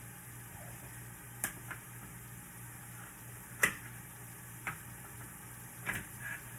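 A cooking utensil knocks and clinks against a pot about five times, the loudest about halfway through, over a steady low hum.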